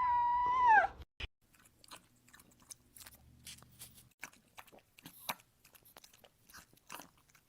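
A pet's drawn-out howl, its pitch falling as it ends about a second in, followed by faint irregular crunching clicks like an animal chewing.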